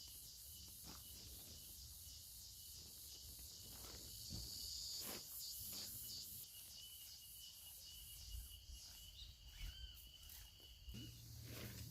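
Insects calling in a steady high trill that stops near the end, with a few faint clicks.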